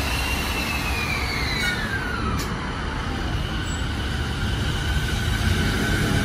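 JR Musashino Line electric commuter train pulling out of the station, its traction motors giving a whine that falls in pitch over the first few seconds over a steady rumble of wheels on rail, with the rumble growing louder near the end.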